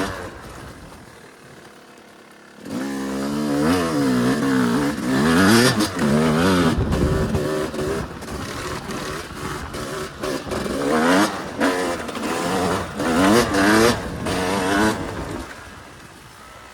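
Yamaha YZ250 single-cylinder two-stroke dirt bike engine ridden off-road. It is quieter and off the throttle for the first couple of seconds, then revs up and down over and over as the throttle is worked. It drops away again near the end.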